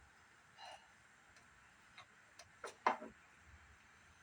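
A few sparse light clicks and knocks from handling a CRT monitor's parts by hand, with a louder pair of knocks about three seconds in.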